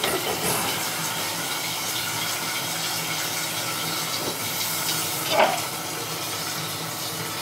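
Toilet tank refilling after the water supply is turned back on: a steady hiss of water running in through the fill valve, with a brief sharper sound about five seconds in.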